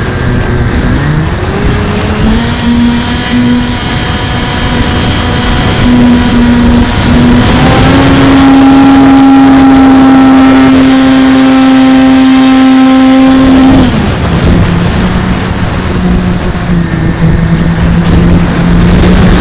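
The Bixler 2's Turnigy electric motor and pusher propeller whine steadily, changing pitch in steps with the throttle. It dips briefly at the start, climbs around two seconds in, and is held at its highest for several seconds in the middle before easing back. Heavy wind rush on the microphone runs underneath.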